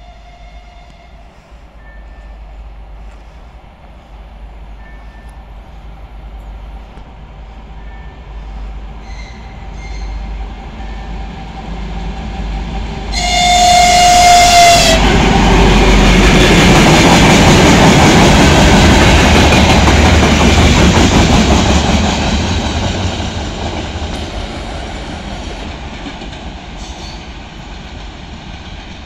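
M62 diesel locomotive with a short freight train approaches with a rising rumble, sounds its horn once for about two seconds, then passes close by with its engine running loud over a steady rumble of wheels on rail. The sound fades slowly as the freight wagons move away.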